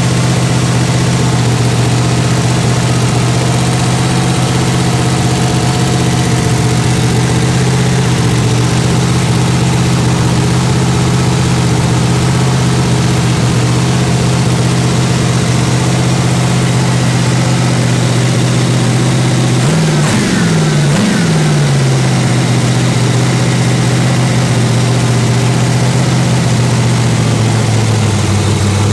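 Chevy 350 small-block V8 with a Comp Cams solid-lifter camshaft running steadily on an engine test stand through long headers and mufflers, held up at speed for the cam break-in. About two-thirds of the way through it is revved up briefly twice, and near the end its speed eases down slightly.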